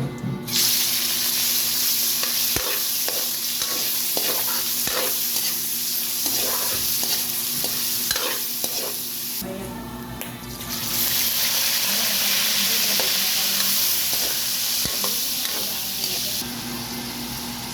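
Food sizzling in a hot pan while a utensil stirs it, with repeated short scrapes and clicks of the utensil against the pan. The sizzle drops away for about a second and a half around the middle, then comes back before easing near the end.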